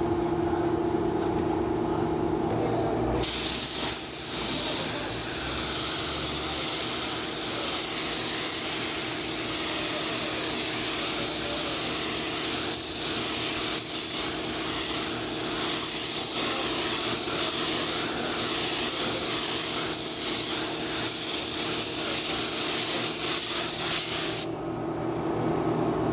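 Compressed-air paint spray gun spraying, a steady loud hiss that starts suddenly about three seconds in and cuts off shortly before the end. A steady hum with a low tone sits under it and carries on before and after.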